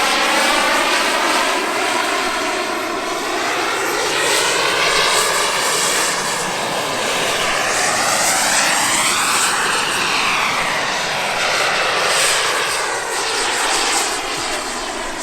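Radio-controlled model aircraft flying overhead, its engine note running steadily. The pitch climbs to a peak about ten seconds in and then falls away as the plane manoeuvres.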